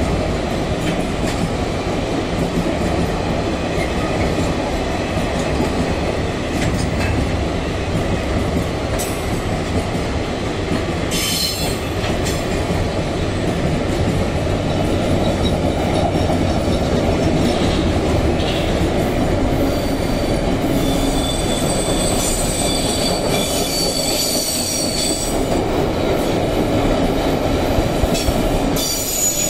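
Freight train rolling along the rails with a steady rumble of wheels. Thin high-pitched wheel squeal comes in during the second half.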